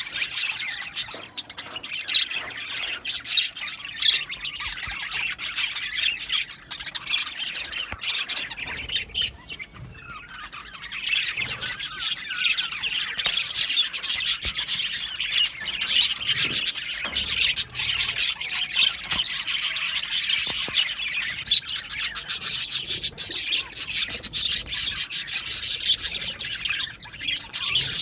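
A flock of budgerigars (budgies) chirping, chattering and squawking together in an aviary, a dense continuous warble that eases off for a moment about a third of the way in.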